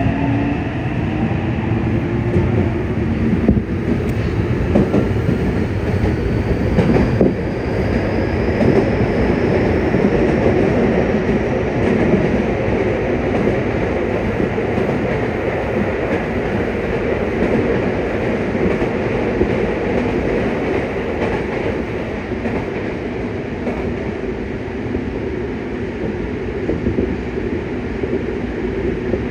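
Yokohama Municipal Subway 3000N-series train running at speed, heard from inside the car: a steady rumble of wheels on rail with some clickety-clack. Faint rising whines from the Mitsubishi IGBT-VVVF traction inverter fade out in the first second or so.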